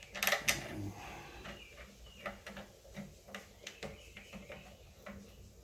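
Handling noise: a short clatter of clicks about a quarter-second in, then scattered light clicks and taps.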